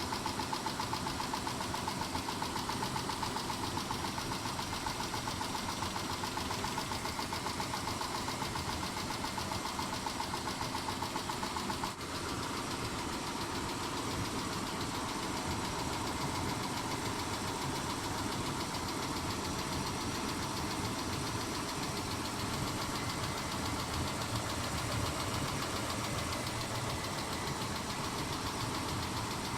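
Mitsubishi 6G72 V6 engine running with a fast, even ticking. The owner suspects the hydraulic lifters, or a tired engine.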